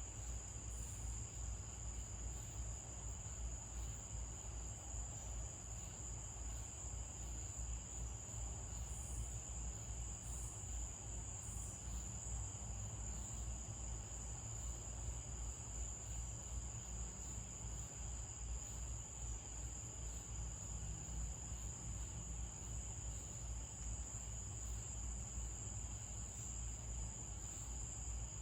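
Chorus of night insects trilling in one steady, unbroken high tone, over a constant low rumble.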